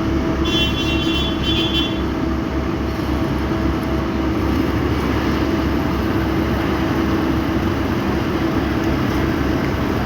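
Heavy diesel paving machinery running steadily at close range, with a constant low engine drone and a faint high-pitched whine for a second or so near the start.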